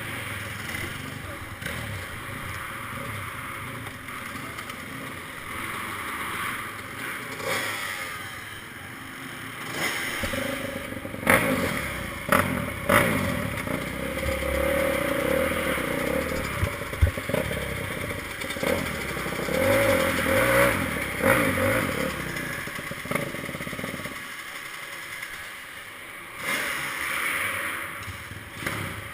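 Motocross bike engine running and revving, rising and falling in pitch, with a few sharp knocks in the middle stretch.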